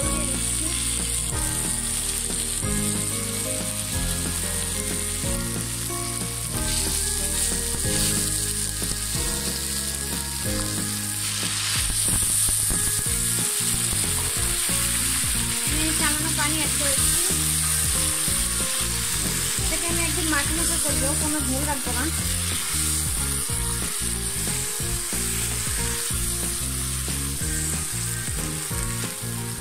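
Dried mola fish and shredded potato frying in oil in a nonstick pan: a steady hissing sizzle.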